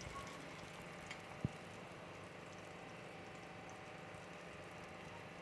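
Egg-battered cauliflower floret frying in hot oil in a pan: a steady sizzle and bubbling, with one sharp tick about one and a half seconds in.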